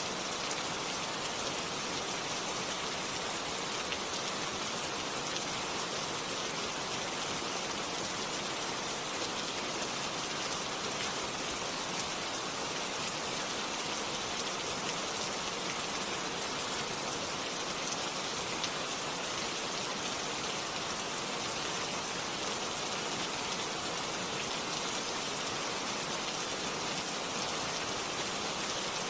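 Steady rain: an even, unbroken hiss of countless drops with no thunder and no rise or fall in level.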